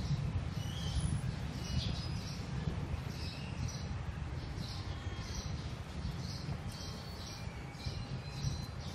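Birds chirping faintly in the background, a few short high chirps a second, over a steady low rumble.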